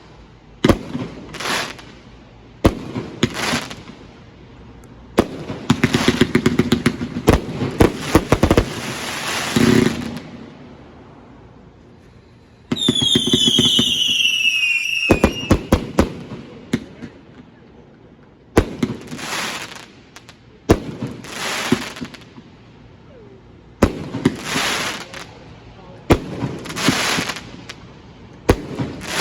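Multi-shot consumer firework cake firing in volleys: rapid bangs and crackling aerial bursts in groups of a few seconds, with short lulls between them. About 13 seconds in, a cluster of whistling shots glides down in pitch.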